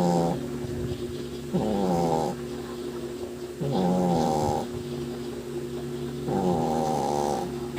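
Shih Tzu dog snoring in its sleep: loud rattling snores about every two seconds, four in all, with quieter breathing between them.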